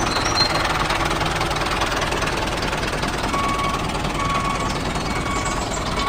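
Small engine of a mini tractor running steadily with a fast, even knocking rhythm.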